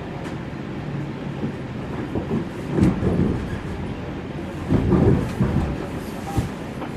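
Moving electric passenger train heard from inside the carriage: a steady low rumble of wheels on the track. It swells louder twice, about three seconds in and again about five seconds in.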